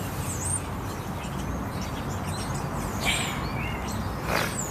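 Birds chirping: many short, quick high chirps scattered through, over a steady low background hum, with two brief rustling swishes about three seconds in and near the end.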